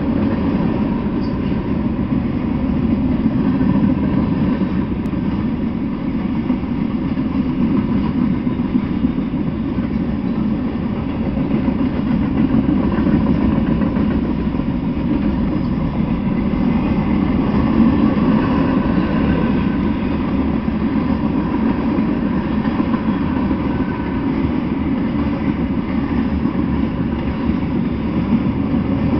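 Freight train rolling past: a steady, unbroken rumble of railcar wheels running over the rails as covered hoppers and autorack cars go by.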